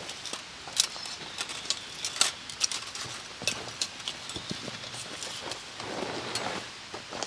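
A run of irregular sharp clicks and light clinks, a few each second, with a soft rustle about six seconds in.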